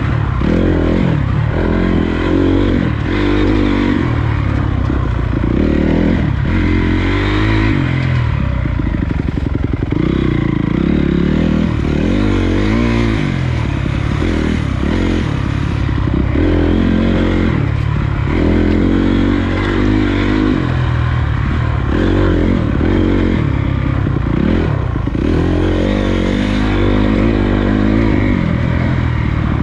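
Honda CRF250 dirt bike's single-cylinder four-stroke engine under way on a trail, its pitch rising and falling every second or two as the throttle is opened and closed, with the clatter of the bike over rough ground.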